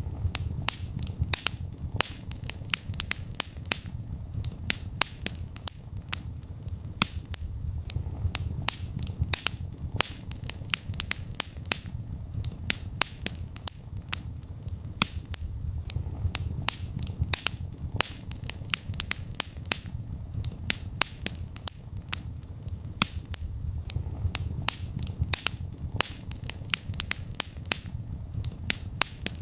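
Wood fire burning in a fireplace: a dense, irregular crackle of sharp pops over the low rumble of the flames.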